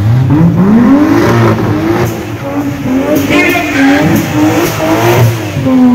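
Car engine revving up through the first second, then held at high revs with the pitch wavering up and down for several seconds, easing off near the end.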